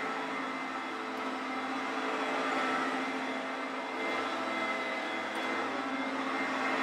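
Hoover Concept 1 upright vacuum cleaner running steadily: a motor whine over a hum and an airy hiss.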